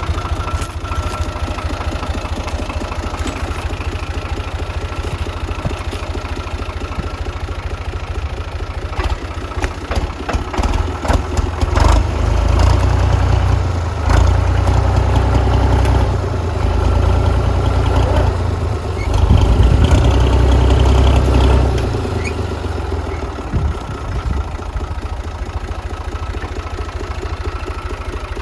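Tractor engine running with a fast, steady low pulse, growing louder and heavier for about ten seconds in the middle, then settling back.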